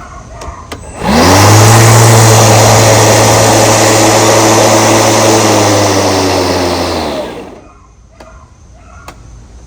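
Milwaukee M18 cordless lawn mower's electric blade motor spinning up about a second in with a quick rising whine, running loud and steady for about six seconds, then winding down and stopping.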